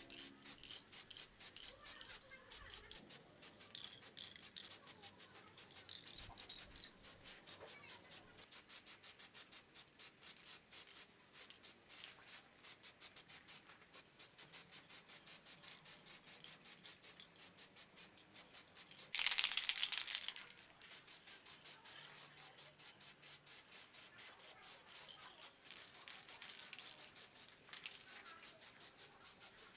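Rapid, even back-and-forth rubbing strokes on a part, several a second. About two-thirds of the way in there is a louder, hissier stretch lasting about a second and a half.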